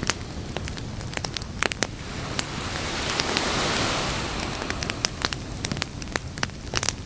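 Beach campfire crackling, with sharp pops scattered throughout. Under it, surf swells into a wash about halfway through and then draws back.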